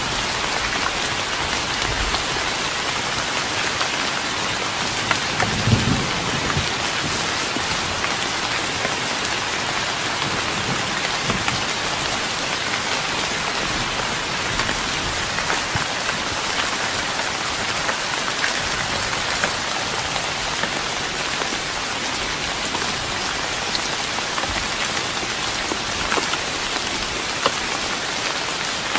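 Steady rain falling on a wooden deck: an even hiss with scattered single drops tapping the boards. A brief low thump comes about six seconds in.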